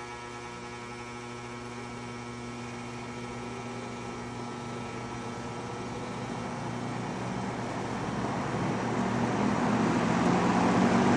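Vintage McGraw Edison Zero box fan running, its motor giving the steady electrical buzz it has always had. From about seven seconds in, the rush of air from the blades grows steadily louder.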